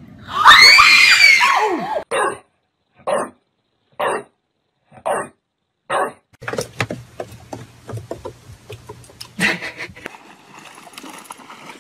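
Several children screaming together, then a dog barking five times about a second apart, then a jumble of scratches and knocks from a bulldog pawing at a framed picture.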